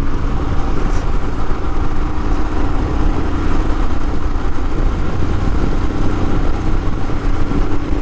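Royal Enfield Himalayan 411cc single-cylinder engine running steadily while riding along the highway, under a heavy, even rush of wind on the helmet-mounted microphone.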